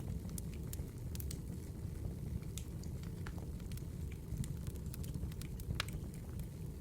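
Firewood burning in a fireplace: scattered sharp crackles and pops at irregular moments over a steady low rumble.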